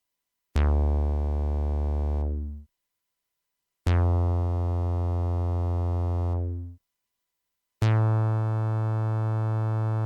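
Jeannie polyphonic analogue synthesizer playing three held bass notes, one after another with short gaps, each about two to three seconds long. Each starts bright and quickly mellows as the filter closes, then sustains and fades out; the third note is pitched a little higher.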